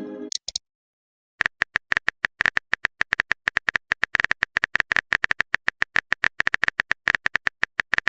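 Electronic sound effect of a logo animation: a pitched sound dies away at the start, then after about a second of silence comes a fast, uneven run of short, sharp, high clicks, about nine a second, lasting to the end.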